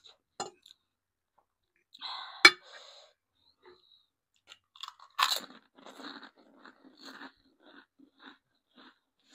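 A person biting into and chewing crunchy food: a loud crunching bite about two and a half seconds in, another a little after halfway, then steady crunchy chewing at about two to three chews a second.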